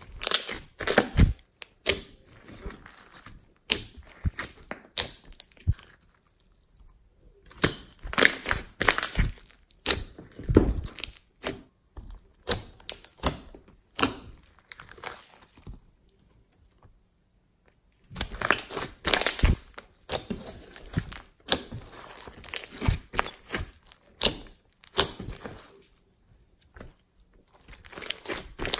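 Hands kneading and pressing slime, making sticky crackling and popping sounds in three stretches separated by short pauses.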